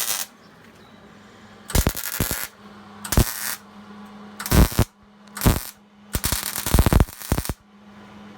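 Electric arc welding in short bursts: about six crackling runs of the arc, mostly half a second to a second long, the last one longest, with a steady low hum between them, as for tack welds or short stitch beads.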